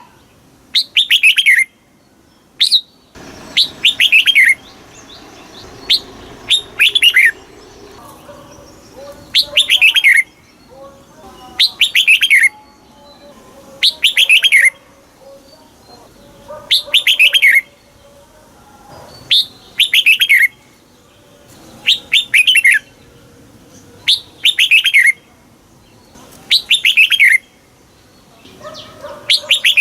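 Red-whiskered bulbul singing, repeating a short phrase of quick notes that slide down in pitch about every two and a half seconds.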